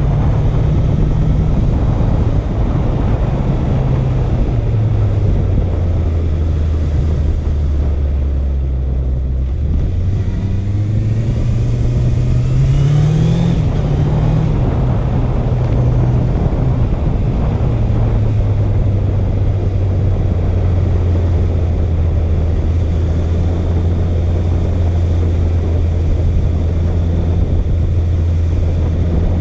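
Honda CB650F inline-four engine on the move, with a steady rush of wind noise. The engine note falls in steps over the first nine seconds or so, rises sharply between about ten and thirteen seconds in, drops back, and holds a steady note at cruise from about eighteen seconds on.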